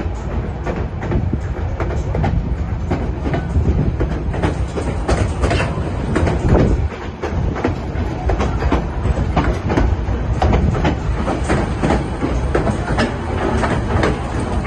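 White Pass & Yukon Route narrow-gauge train running: a steady low rumble with frequent sharp clicks and rattles from the wheels and cars on the track.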